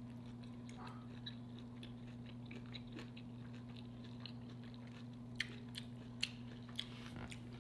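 Close-miked chewing of a mouthful of red snapper and sautéed cabbage: faint, soft mouth clicks, with a few sharper clicks in the second half. A steady low hum runs underneath.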